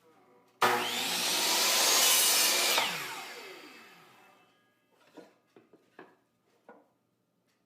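An electric workshop saw starts suddenly and cuts through 3/4-inch plywood for about two seconds. It is then switched off and winds down with a falling whine. A few short wooden knocks follow as the cut pieces are handled.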